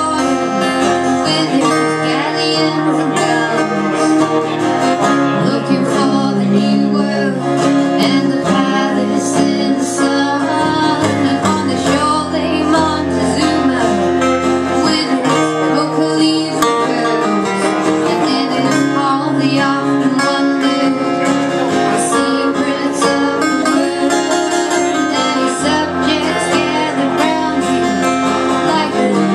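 Old-time string band playing live, plucked acoustic strings carrying the tune over a moving low bass line.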